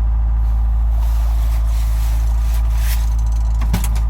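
1987 Ford Mustang LX engine idling steadily just after a cold start in freezing weather, after sitting unused for a long while. A short click near the end.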